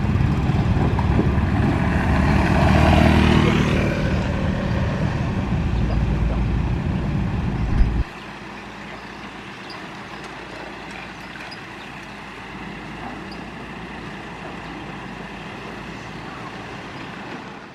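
Heavy diesel construction machinery running loud and steady, swelling briefly about two to four seconds in. About eight seconds in it cuts off suddenly, leaving a much quieter steady background noise.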